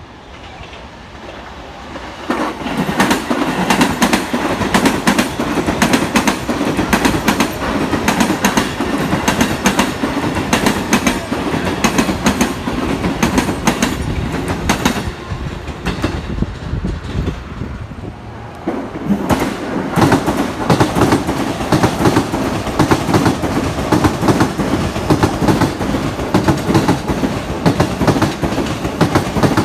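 Electric commuter trains (orange-striped JR Chuo Line rapid E233 series) passing at speed: a steady rumble with wheels clacking over rail joints. One train comes in about two seconds in, the sound dips briefly near the middle, and a second passage starts around nineteen seconds.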